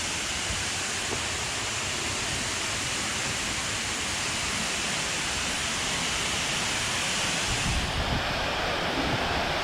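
Rocky Brook Falls pouring down: a steady, even rush of falling water.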